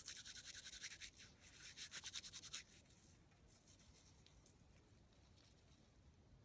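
Near silence, with faint quick scratching strokes, several a second, for the first two and a half seconds.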